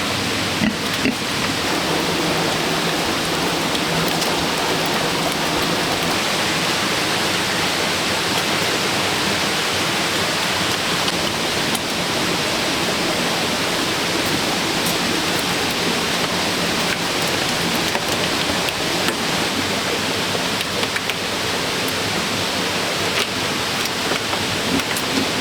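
Steady heavy rain falling, a constant dense hiss with a few scattered sharper drip ticks.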